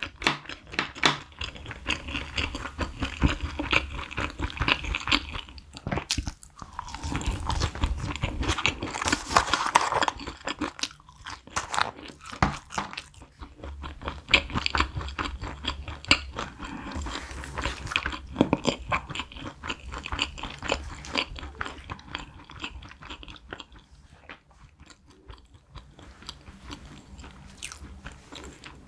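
Close-miked chewing of McDonald's french fries: bites and crunches in quick, crackling runs, growing quieter near the end.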